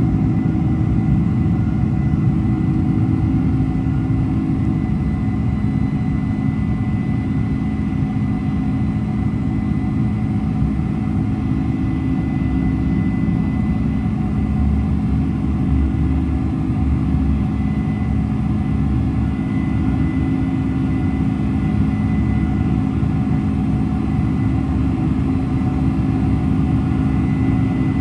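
Cabin noise inside a Boeing 747-400, dominated by its General Electric CF6-80C2 turbofan engines: a steady low rumble with a steady high whine on top.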